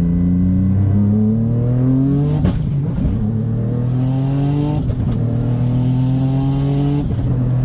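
Big-turbo EG33 flat-six engine under hard acceleration, its pitch climbing steadily. The pitch drops back sharply three times, about two and a half seconds apart, and climbs again each time.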